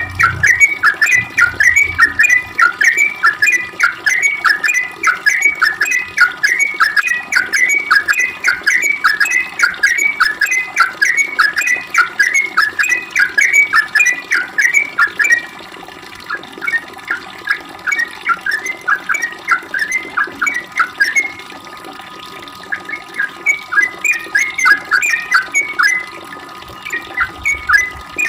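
Yellow-vented bulbul (trucukan) singing a long, rapid run of short chattering notes, about three or four a second. The run thins out about halfway through, stops briefly, then comes back in short bursts near the end.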